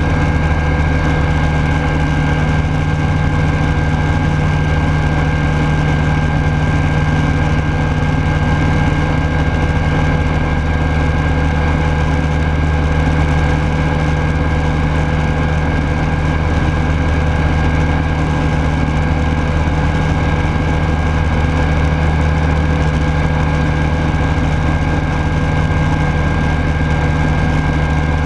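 Rotax 912S flat-four engine and propeller of a Rans Coyote S6 ultralight running at a steady speed, heard loud from inside the cockpit.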